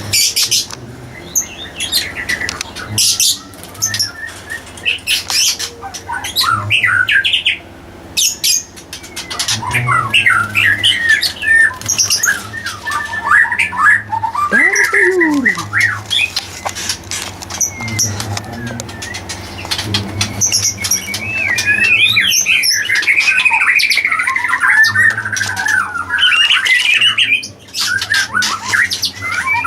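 Birds squawking and chirping in many short, gliding calls, busiest in the second half, over many sharp clicks.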